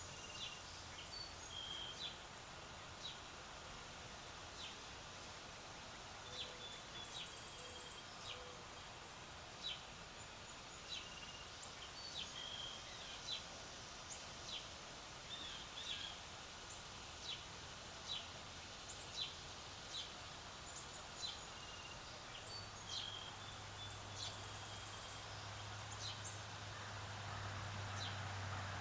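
Outdoor ambience with birds chirping: scattered short, sharp chips and brief whistled notes about once or twice a second. A low steady hum comes up in the last several seconds.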